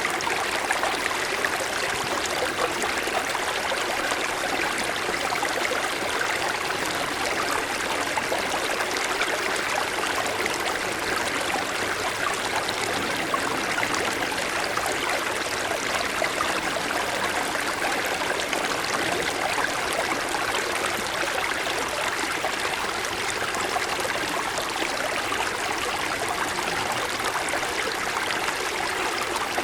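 Small mountain stream flowing steadily, an even rush and babble of water over stones.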